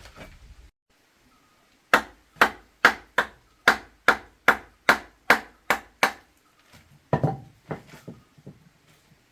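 Chopping: a run of about ten sharp blows on wood, a little over two a second, then a short cluster of softer knocks near the end.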